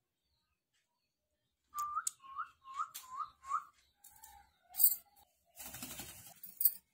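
Pet parrot whistling: a run of five short rising whistles about 0.4 s apart, then a few lower notes and a sharp click. Near the end comes a second of rustling, scratchy noise.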